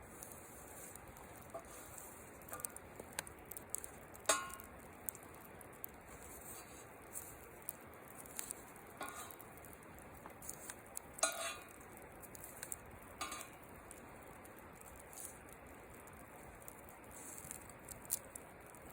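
Wood fire burning in a steel fire bowl, crackling steadily with scattered sharp pops, the loudest about four seconds in and again about eleven seconds in.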